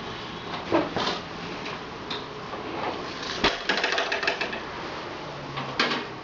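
Several knocks and clicks over steady background noise. The loudest is a sharp knock about three and a half seconds in, followed by a second of rapid rattling clicks.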